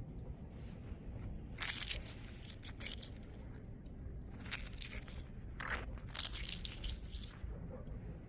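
Dry leaves being crushed, crunching and crackling in several separate bursts, the loudest about two seconds in and again past the middle.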